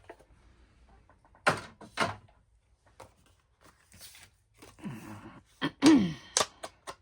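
Paper and cardstock being handled on a craft table: rustling and a couple of light knocks about a second and a half in, with small clicks, and a short murmured vocal sound falling in pitch near the end.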